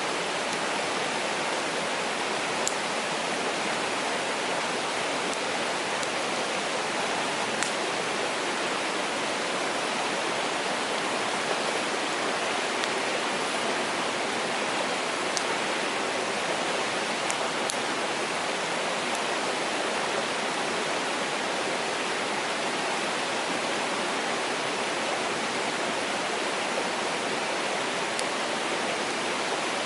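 Mountain stream rushing steadily, with a few faint sharp pops from a wood campfire now and then.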